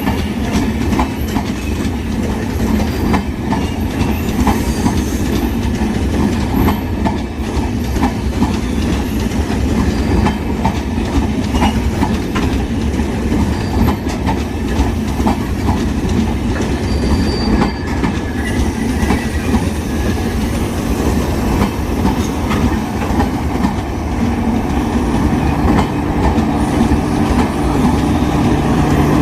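Train coaches rolling past over rail joints: a steady heavy rumble with rapid clickety-clack and occasional faint wheel squeal. Near the end a locomotive's steady engine drone comes up under it.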